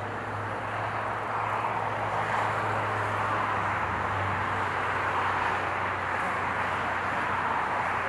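Jet airliner engines heard from the ground: a steady rushing roar that swells slightly over the first few seconds, with a low steady hum beneath.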